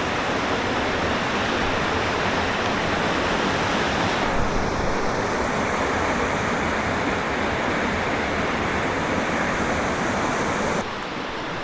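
Steady rushing water, a dense even hiss and rumble like a fast stream or small waterfall. Its character shifts about four seconds in and it gets quieter near the end.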